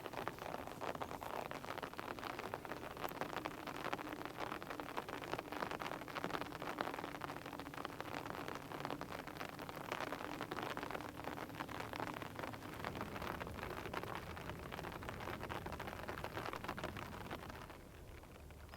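Rain pattering steadily on leaves and surfaces, a dense, even crackle of drops that eases slightly near the end.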